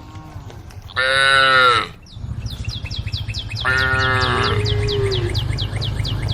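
Cows calling: one short, loud, high-pitched moo about a second in and a longer one near the middle. Under them, from about two seconds in, there is a rapid high chirping, about five a second, over a steady low hum.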